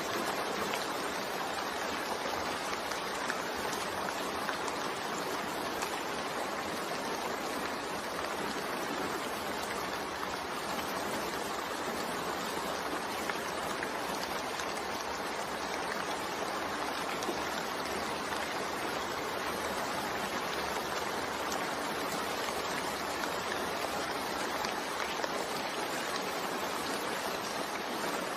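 Steady rain falling: an even, unbroken hiss of water, with now and then a single faint drop tick.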